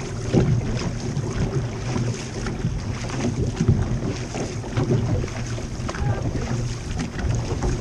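Water rushing and splashing around a moving outrigger canoe as the crew paddles, with wind rumbling on the microphone.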